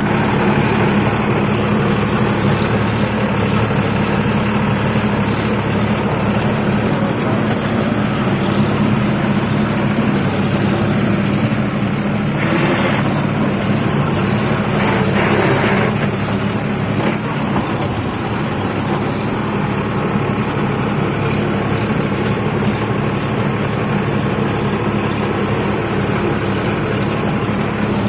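Tractor's diesel engine running steadily under load, working a paddy field, with two brief bursts of noise about halfway through.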